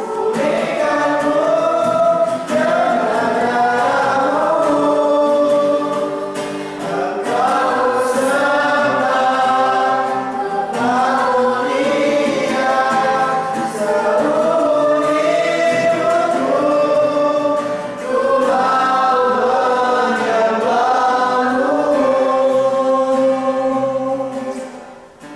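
A group of voices singing a Christian worship song together, in phrases with short breaths between them, ending near the end.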